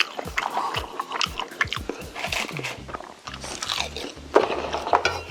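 A person chewing crunchy food close to the microphone, with a quick run of crisp crunches and clicks.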